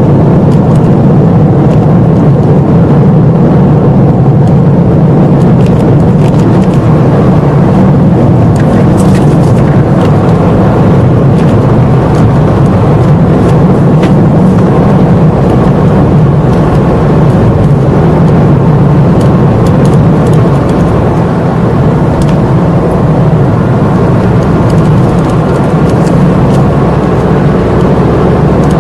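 Steady drone of engine and road noise from a car driving along, heard from inside the cabin.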